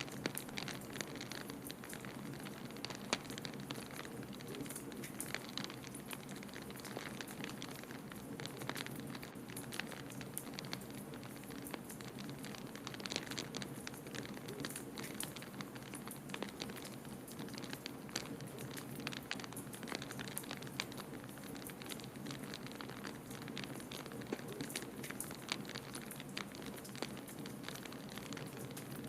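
Wood fire in a fireplace crackling, with frequent small sharp pops over a steady low rush of blizzard wind.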